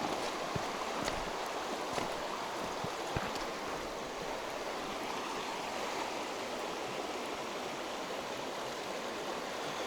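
Mountain river flowing over stones: a steady, even rush of water, with a few faint clicks in the first few seconds.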